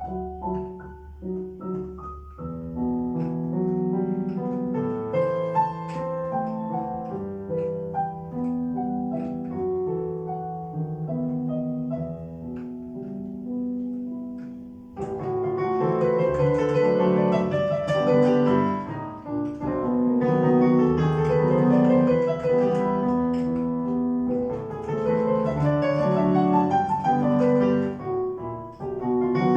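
Solo piano playing an Ecuadorian pasillo, soft and sparse at first, then turning suddenly louder and fuller about halfway through.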